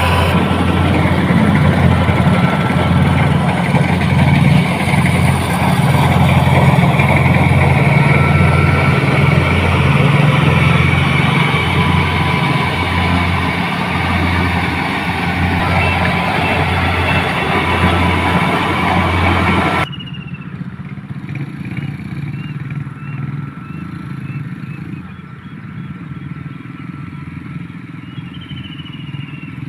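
Motorcycle engine running steadily, with an evenly pulsing low note. About two-thirds of the way in it drops suddenly to a much quieter background with faint high chirps.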